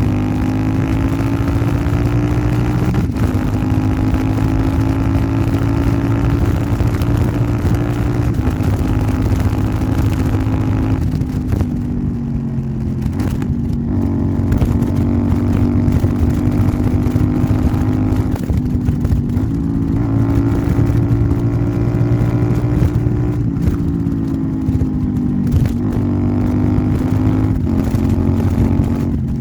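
Royal Enfield Interceptor 650's parallel-twin engine running through an aftermarket Nuke exhaust while riding. The engine note rises and falls with throttle and gear changes, dropping back from about eleven seconds in and climbing again later.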